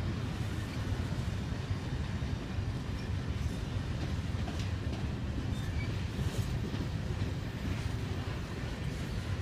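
Freight train of covered grain hopper cars rolling past: a steady low rumble of steel wheels on rail, with a few faint clicks.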